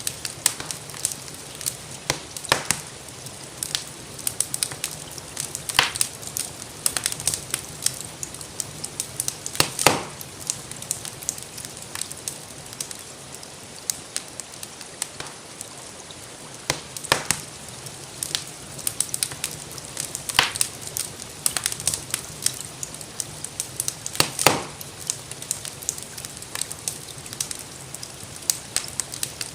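Wood fire crackling in a fireplace, with irregular sharp pops over a steady soft hiss of rain.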